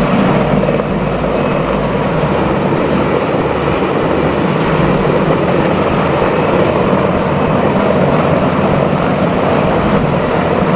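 Large transport helicopter's rotors and turbine engines running loudly and steadily.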